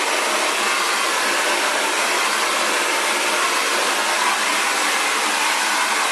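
A 2200-watt Xtava Allure ionic ceramic hair dryer running steadily, blowing air in an even, unbroken whoosh.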